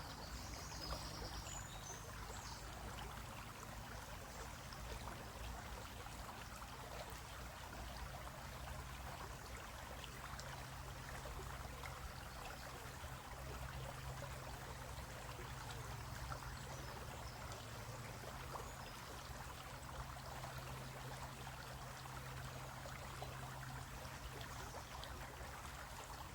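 Shallow stream running over rocks: a steady, unchanging trickling rush of water, with a low rumble underneath.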